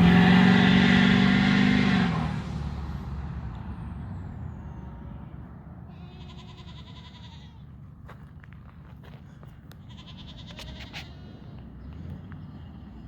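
2007 LBZ Duramax 6.6-litre V8 turbodiesel running with its exhaust removed, loud for about two seconds and then dropping away within a few seconds. Faint high calls follow, twice.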